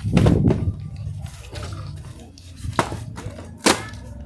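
Sharp knocks of pieces of firewood being handled and stacked, twice about a second apart near the end, over a low rumble.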